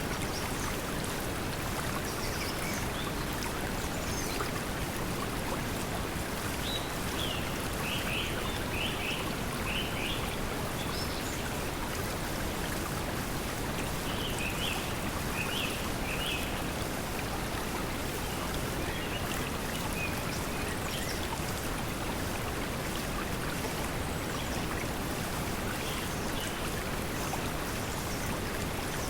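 Steady pink noise mixed with flowing water, with faint bird chirps coming and going over it.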